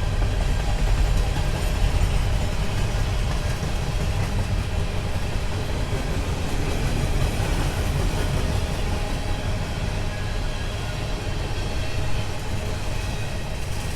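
Empty freight cars of a CSX grain train rolling past on the rails, a steady rumble of wheels on track that eases slightly near the end.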